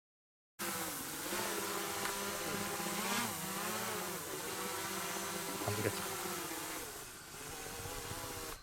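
Multirotor drone's motors and propellers running, a steady whine of several tones over a hiss, starting abruptly about half a second in. The pitch shifts briefly a couple of times as the throttle changes.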